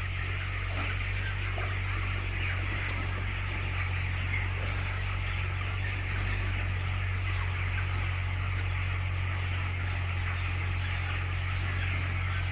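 A flock of broiler chickens calling together, a dense, continuous chatter of many small clucks and cheeps, over a steady low hum.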